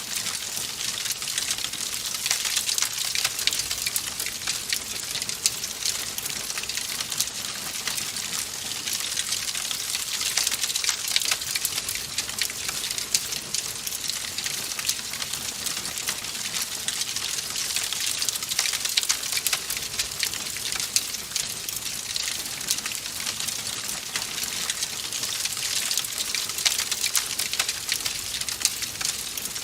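Wood fire crackling in a fireplace: a steady hiss thick with small pops and snaps.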